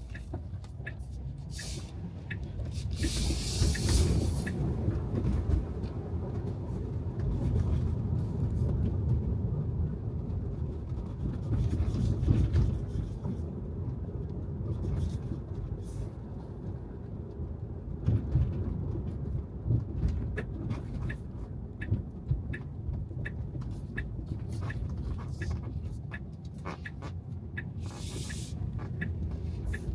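Road noise from an electric Tesla Model 3 driving on wet pavement: a steady low rumble with the hiss of tyres on the wet road. Two short, louder bursts of hiss come about three to four seconds in and near the end, along with scattered small ticks.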